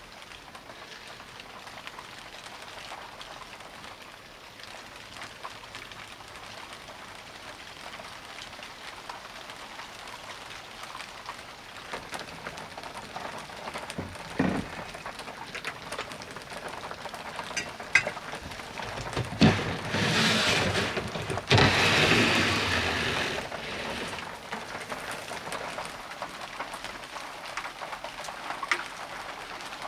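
Rain falling steadily, with individual drops striking close by as sharp ticks. About twenty seconds in, a louder rush lasting a few seconds rises and then falls back.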